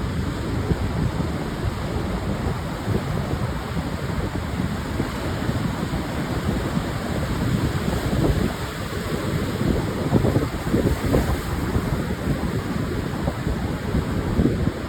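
Pacific surf breaking and washing up a sandy beach in a steady rush, with wind buffeting the microphone.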